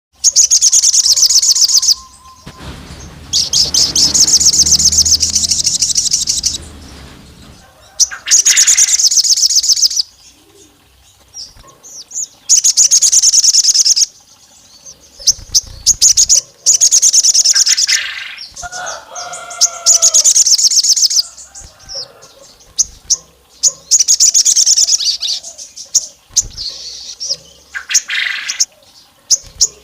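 A sogon songbird singing loud, high, rapid trills in bursts of about two seconds, repeated every few seconds. This is a lure call resembling a female calling a male, meant to rouse rival males into singing.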